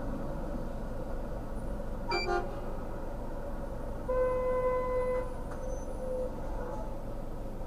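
A vehicle horn honks: a short beep about two seconds in, a held one-second honk around four seconds in and a brief one near six seconds, over a steady low engine rumble.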